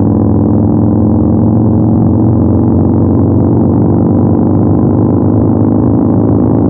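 Yamaha MT-01's 1670 cc air-cooled 48-degree V-twin running at a steady cruise, its exhaust note loud and holding one even pitch throughout.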